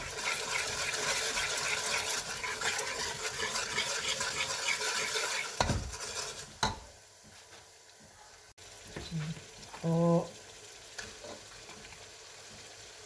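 A metal spoon stirring and scraping tomato paste and spice masala as it fries in an aluminium pressure cooker, with a steady sizzle. The stirring stops about six seconds in after two knocks, leaving a faint sizzle.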